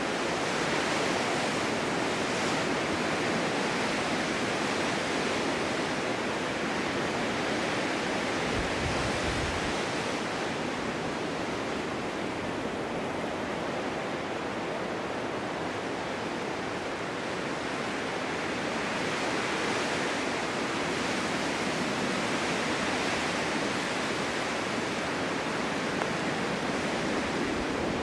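Strong winter wind blowing steadily, with slow gusts that swell and ease every few seconds.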